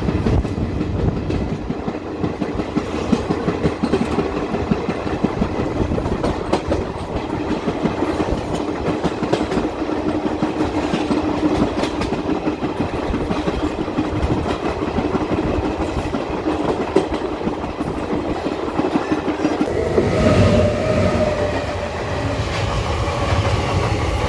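Passenger express train running on the line, heard from aboard: steady wheel-and-rail clatter with a constant low hum. About twenty seconds in the sound shifts and a steady higher tone joins the clatter.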